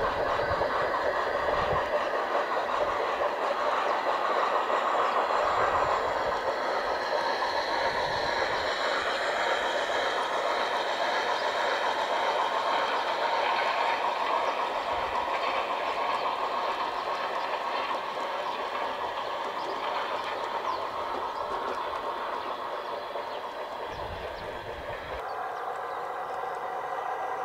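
Garden-railway model train running along the track, with a steady, fast clicking clatter from wheels and running gear. The sound slowly fades and changes near the end.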